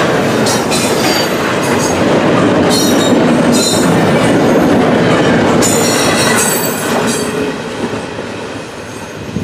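CSX freight cars passing close at speed: a loud, steady rumble of steel wheels on rail, clicking over the joints, with brief high wheel squeals. The sound fades away as the last car goes by, about seven to eight seconds in.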